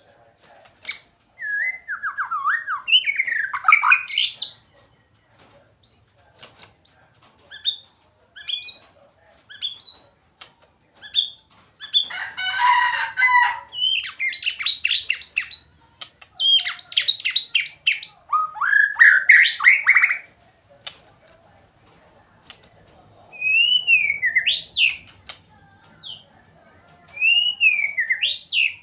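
White-rumped shama singing a long, varied song: sweeping whistled phrases, short high notes, a harsh rattle about twelve seconds in and fast trills after it, with short pauses between phrases.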